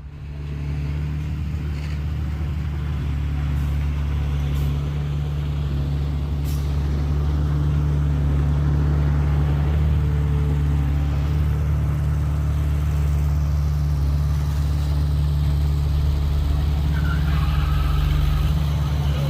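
A motor vehicle's engine running steadily with an even low drone that holds one pitch throughout.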